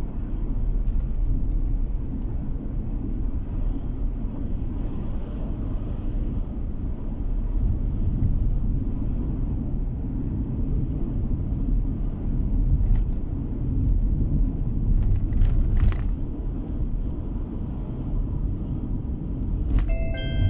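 Steady low rumble of a car on the move, road and engine noise heard from inside the cabin, with a few faint clicks and a short electronic chime near the end.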